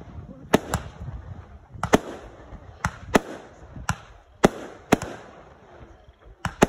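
Aerial fireworks bursting: about nine sharp bangs at uneven intervals, some in quick pairs, as shells go up and pop into small red and gold bursts.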